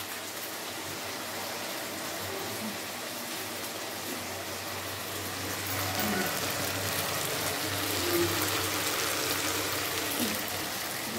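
Tomato-and-spice masala sizzling steadily in hot oil in an aluminium kadai, with a low steady hum underneath.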